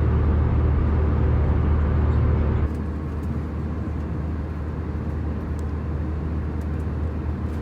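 Steady cabin noise of an Airbus A320 in flight, a low hum with a rushing haze above it. The level drops a little about two and a half seconds in, and a few faint clicks follow.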